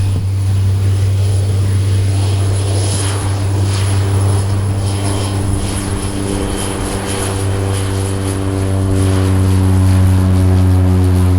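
Turboprop aircraft running at high power, likely on its takeoff run: a loud, steady low propeller drone with engine tones that rise slowly in pitch over the second half and grow louder near the end.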